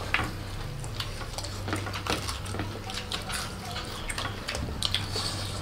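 Several people chewing crispy fried chicken: a steady scatter of small crunches, crackles and mouth clicks.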